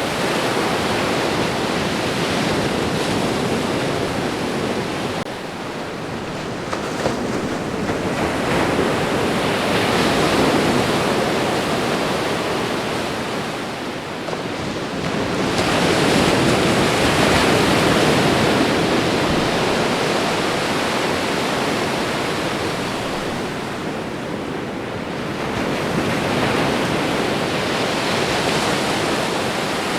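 Ocean waves washing onto a shore, a continuous surf noise that swells and ebbs in slow surges, cresting three times.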